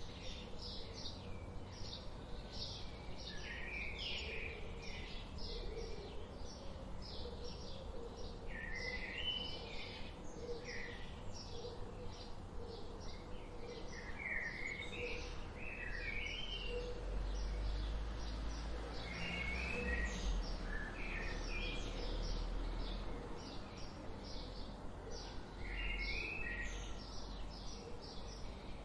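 Several birds singing: a dense run of short, high chirps with zigzagging song phrases breaking in every few seconds. A low rumble sits underneath, stronger in the middle.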